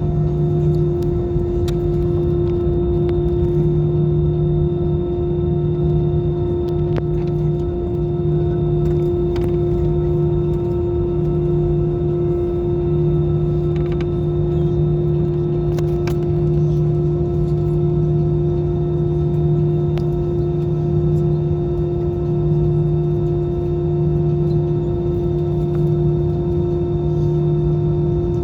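Airbus A320 jet engines running steadily, heard as a constant drone with a strong steady hum and a low rumble that swells and fades slightly.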